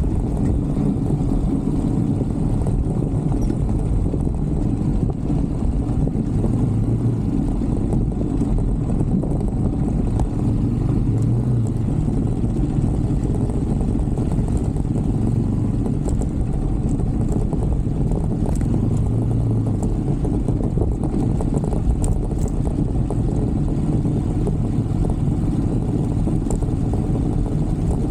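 125cc Brixton motorbike's single-cylinder engine running steadily while riding, swelling briefly a few times.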